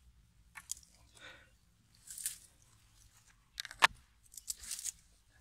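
Dry crackling and snapping with soft rustling in between; one sharp, louder snap a little before the four-second mark.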